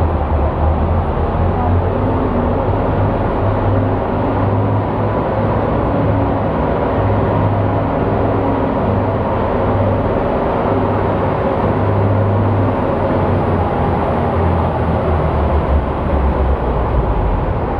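A heavy pulling engine running loud and steady, its deep drone wavering slightly in pitch, over a dense wash of arena noise.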